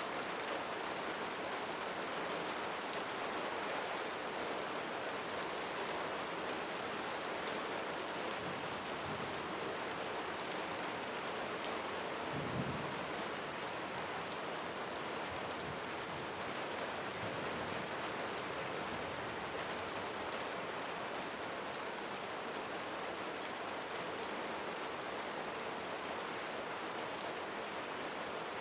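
Steady rain falling on leaves, an even patter with a brief low thud about halfway through.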